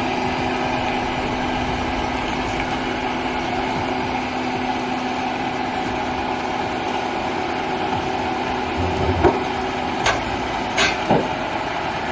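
A hooklift truck's diesel engine running steadily, with a few short knocks about three-quarters of the way through.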